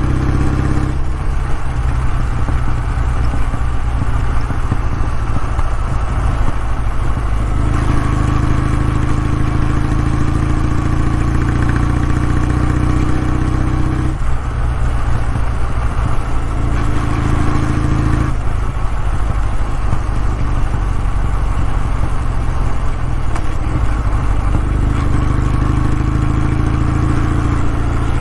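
Kawasaki W650's parallel-twin engine running, its exhaust note steady but shifting between two settings several times: about a second in, near eight seconds, around fourteen, seventeen and eighteen seconds, and again near twenty-five.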